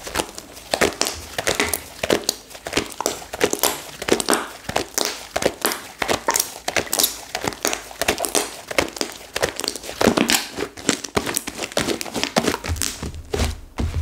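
Flora slime, slime mixed with clay that has set hard and crisp, crackling and crinkling as it is squeezed and worked by hand, a dense run of irregular small crackles.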